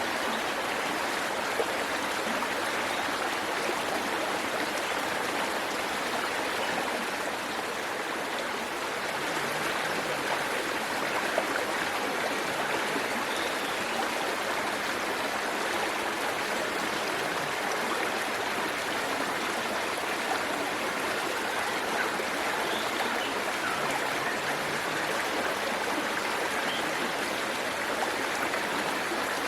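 Water of a forest waterfall and its stream rushing steadily, an even, unbroken flow.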